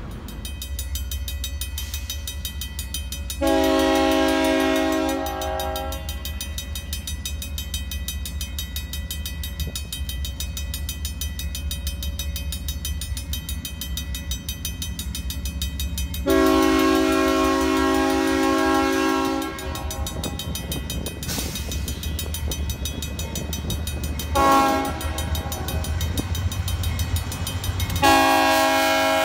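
Locomotive air horn sounding the grade-crossing signal, long, long, short, long, each blast several notes sounding together, over the steady rumble of the train. The last long blast is still going at the end.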